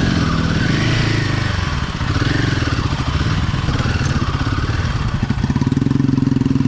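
Motorcycle engine running at low speed on a rough dirt trail. The engine note rises a little about five seconds in as the throttle opens.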